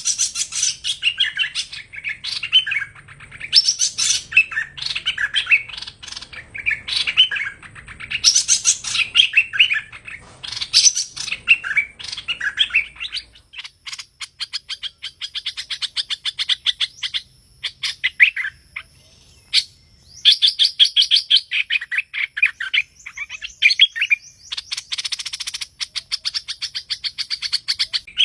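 Hoành hoạch bird singing a lure song: rapid chattering phrases of high, quick notes. From about halfway it turns to long, fast trills broken by short pauses.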